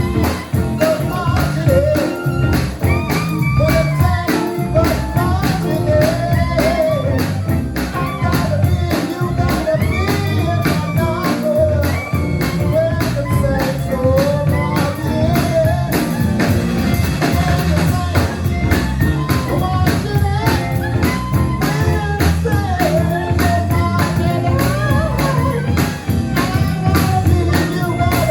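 Live band playing an upbeat New Orleans-style number, with drums and bass keeping a steady beat under a bending lead melody line.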